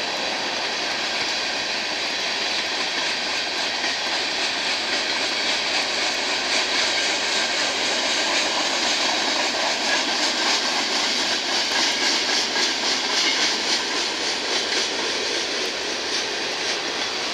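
Freight train of tank cars and an autorack rolling past: a steady rush of steel wheels on rail, swelling slightly in the middle.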